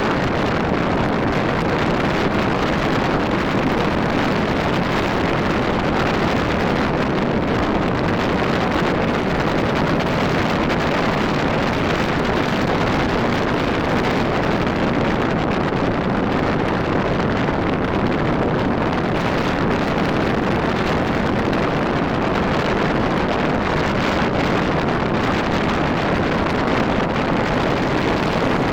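Steady wind rush on the microphone while riding a Rusi RFI 175 motorcycle at road speed, the engine blended into the noise.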